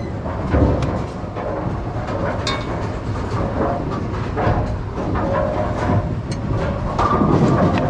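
Steady rumbling clatter of bowling pinsetter machinery, with many short clicks and knocks scattered through it.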